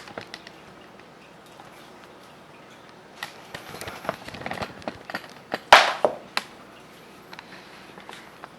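A scattering of small clicks and knocks over a faint background hiss, growing busier about halfway through; the loudest is a sharp knock with a brief rustle about six seconds in.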